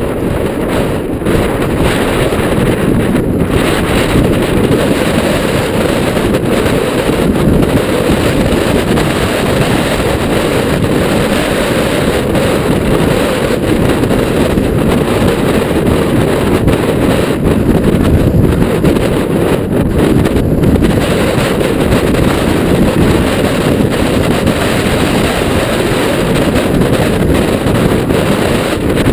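Strong wind buffeting the camera microphone during a mountain bike ride, a loud, steady low rumble.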